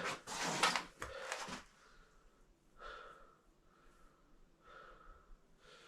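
A man breathing hard from exertion: two strong, noisy breaths in the first second and a half, then softer breaths about every two seconds.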